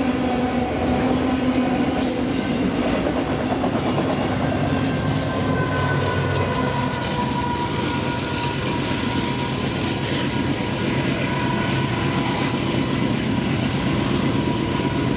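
Loaded autorack freight cars rolling past with rumbling wheels and a steady high wheel squeal. About five seconds in, the rear distributed-power locomotive, a GE AC4400CW (C44AC), passes with its diesel engine running under load, and it goes on running as the locomotive moves away.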